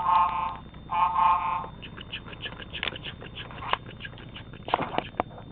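Two short steam-engine whistle toots, one right at the start and one about a second in, each a steady chord-like blast, followed by a few scattered clicks and knocks.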